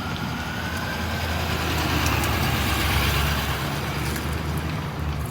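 A motor vehicle's engine rumble that swells as it comes close, peaking about three seconds in, then eases off again as it passes.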